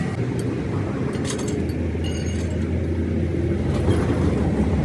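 A vehicle engine running steadily with a low hum that grows louder, with a few light metallic clinks, as of tools or metal parts, in the first half.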